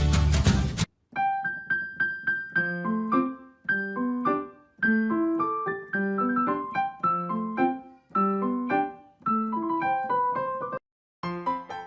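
Background music: a loud full-band track cuts off abruptly about a second in, and a solo piano then plays a light, bouncy melody of separate notes in a repeating phrase, breaking off briefly near the end before going on.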